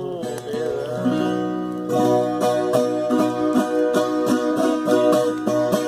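Viola caipira playing an instrumental passage at the end of a moda de viola, with sustained notes and, from about two seconds in, steady plucked strokes two to three a second.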